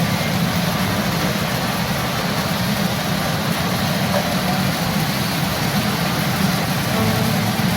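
Loud, steady din of a pachinko parlor: many machines and their balls, sound effects and music blending into one continuous roar.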